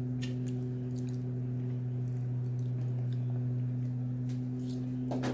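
Close-up chewing: scattered soft wet clicks and smacks of someone eating fried potatoes, over a steady low hum.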